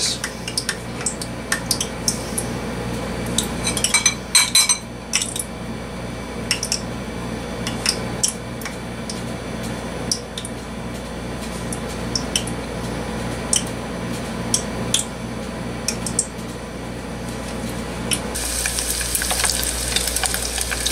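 Scattered clinks and taps of utensils against ceramic bowls as small strips of meat are dipped in egg and dredged in flour, over a steady hum. About 18 seconds in, hot oil starts sizzling steadily as the battered strips go into the deep-frying pot.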